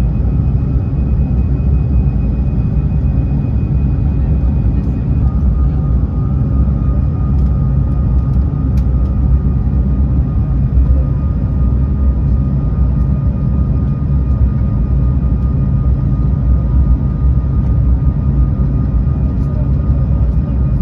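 Steady, loud cabin rumble inside an Airbus A220-300, engine and airflow noise heard from a passenger seat, with a faint high tone that changes pitch about five seconds in.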